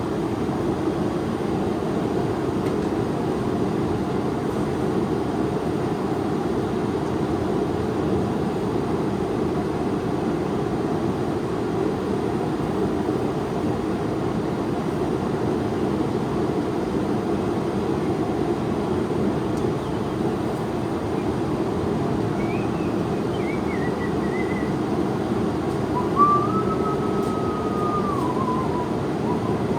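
Forge burner running with a steady, even rushing noise while a steel knife blank heats. Near the end comes a short whistled tune.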